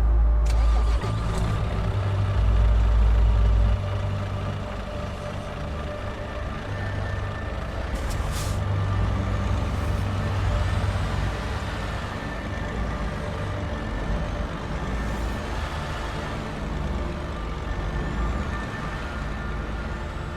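Heavy diesel truck running, with a deep engine rumble that is loudest for the first few seconds and then settles to a steadier, quieter run. There is a short air-brake hiss about eight seconds in.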